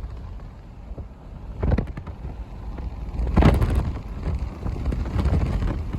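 Diesel locomotives idling with a steady low rumble, with wind buffeting the microphone and two louder gusts, one under two seconds in and one about three and a half seconds in.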